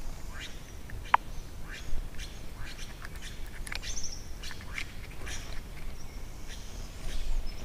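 Birds chirping: a string of short, quick chirps that sweep down in pitch, with a brief whistled note about a second in and a higher call near the middle.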